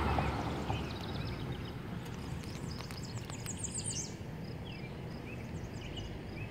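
Several songbirds chirping and calling in short high notes, with a quick run of high notes about three and a half seconds in, over a steady low background noise.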